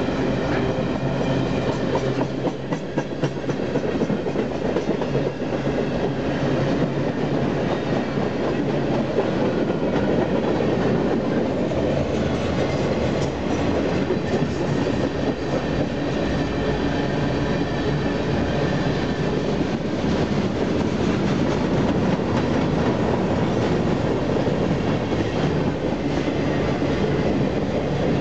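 Freight train cars (boxcars, covered hoppers and tank cars) rolling past close by: a steady rumble of steel wheels on rail with a run of clicks from the wheels crossing the track.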